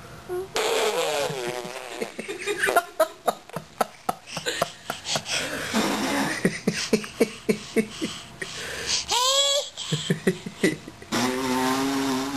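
Toddler and adults trading playful vocal noises, with bursts of laughter. A run of short, rapid laughing pulses fills the middle, a high squeal rises and falls about nine seconds in, and a long held voiced sound comes near the end.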